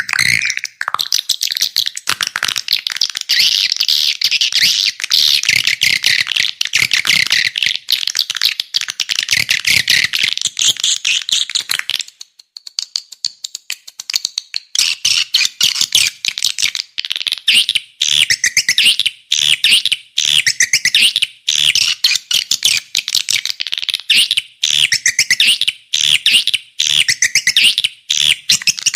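Swiftlet calls from a lure recording used to attract swiftlets to a bird house: a dense, rapid chatter of high clicking twitters. It breaks off for about two seconds near the middle, then resumes.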